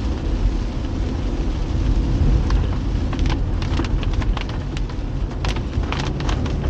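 A car driving in heavy rain: a steady low rumble of engine and tyres on the wet road, with raindrops ticking sharply against the car, more thickly in the second half.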